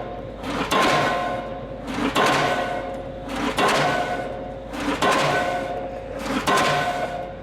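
Diesel pile hammer driving a steel H-pile. Five heavy blows land about a second and a half apart, and each leaves the pile ringing with a fading metallic tone.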